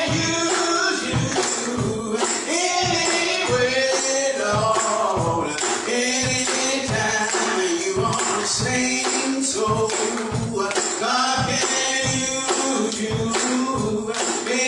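Gospel music with a tambourine keeping a steady beat, about two strokes a second, under voices singing.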